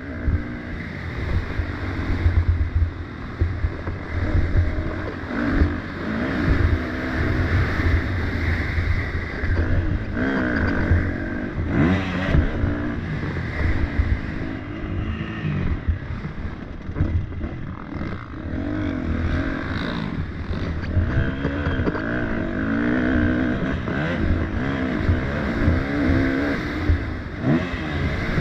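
Motocross dirt bike engines revving hard and dropping off as several bikes race around the track, their pitch rising and falling continually, one engine over another.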